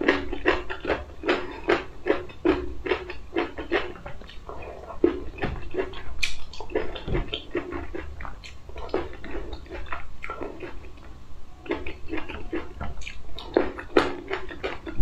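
Close-miked chewing of green grapes: a quick run of wet crunching and squishing mouth sounds, several a second, thinning out for a few seconds midway.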